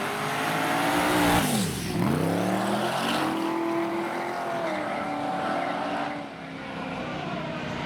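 A drag-racing truck's engine running hard on a pass down the strip. Its pitch drops steeply about two seconds in, climbs again and then holds.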